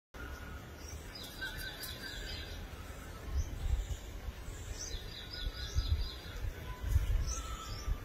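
Small birds chirping in two runs of rapid, high chirps, one about a second in and another about five seconds in, over low rumbling bumps on the microphone.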